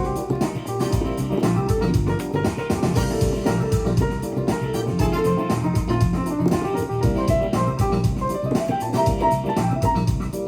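Korg Pa1000 arranger keyboard playing one of its factory styles: a piano-like keyboard melody over an automatic accompaniment of drums, bass and guitar, with a steady beat.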